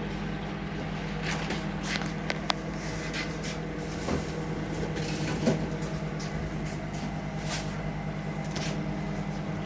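Microwave oven running with a steady low hum while a steak cooks inside it, fat popping and crackling now and then.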